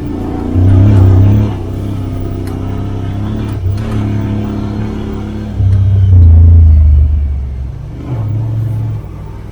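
Side-by-side UTV engine revving under throttle in surges, its pitch rising and falling, with a deep rumble; the loudest surges come about half a second in, around six seconds in, and near eight seconds.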